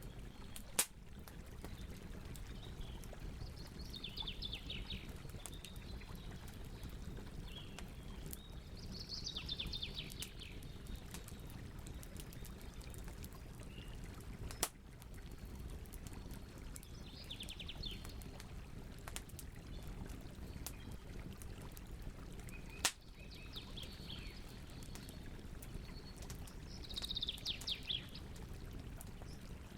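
Campfire crackling with scattered small clicks and three sharp pops, over a low steady rumble. Birds call in short rapid trills every few seconds.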